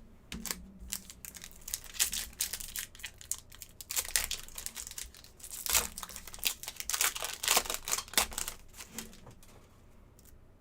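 Plastic-foil trading card pack wrappers crinkling and tearing as packs are ripped open and handled, an irregular run of sharp crackles that dies away near the end.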